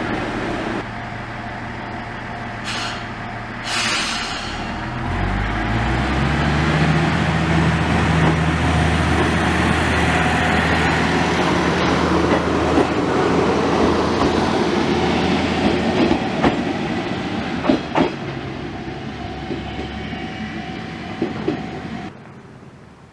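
Tenryū Hamanako Railway diesel railcar running. Its engine rises in pitch about five seconds in and then holds steady under a constant rolling rumble, with a few sharp clicks from the wheels on the rails later on. The sound cuts off suddenly just before the end.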